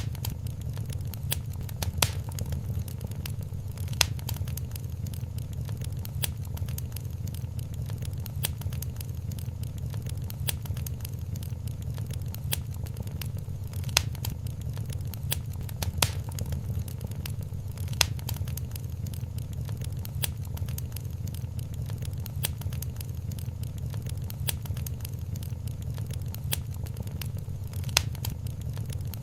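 Wood fire crackling in a fireplace: a steady low rumble of the flames under constant small crackles, with louder pops every few seconds.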